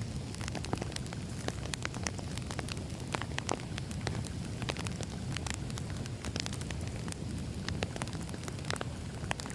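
Firewood burning, with many irregular sharp crackles and pops over a steady low rumble.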